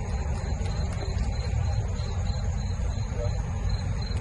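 Insects chirping in a regular pulse, about three times a second, with a steady high buzz beside it, over a loud low rumble.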